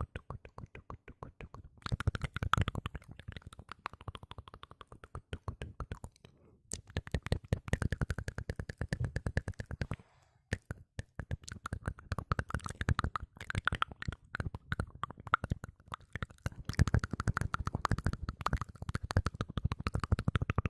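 ASMR mouth sounds close to the microphone: rapid wet clicks and smacks in runs of several seconds, broken by brief pauses.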